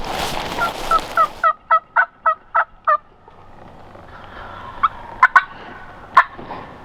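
A wild turkey yelp series: about nine short, evenly spaced yelps, each falling in pitch, at roughly three a second, followed by a few single sharp clucks. A rustling noise runs under the first yelps and cuts off sharply about a second and a half in.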